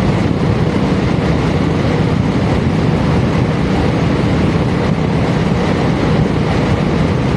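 Royal Enfield Meteor 350's single-cylinder engine running at a steady cruising speed, with a continuous rush of wind and road noise over the rider's microphone.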